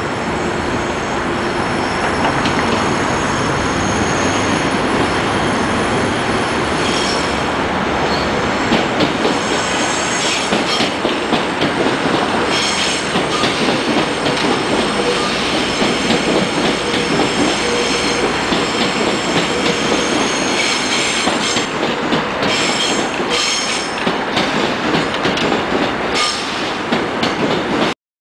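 Electric commuter train passing close below, with a steady rumble of wheels on rail and a thin high-pitched wheel squeal. Clacks from the wheels over rail joints come in clusters through the second half. The sound cuts off abruptly near the end.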